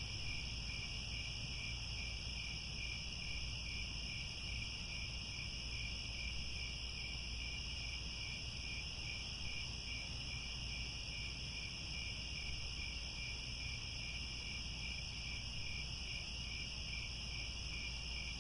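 A dense chorus of crickets trilling steadily in several layered high, shrill tones, one of them pulsing about twice a second, over a faint low rumble.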